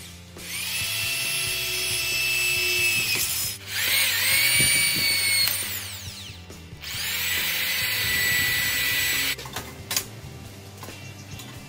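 Corded electric drill boring holes through metal square tubing, in three runs of a few seconds each; the motor's whine rises in pitch as it spins up at the start of each run. It goes quieter after about nine seconds, with a few light clicks.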